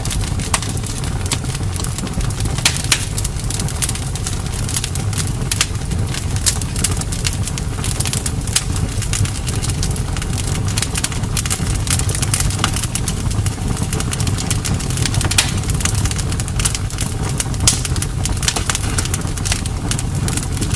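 Campfire burning, with a steady low rumble of the flames and frequent, irregular sharp crackles and pops from the burning wood.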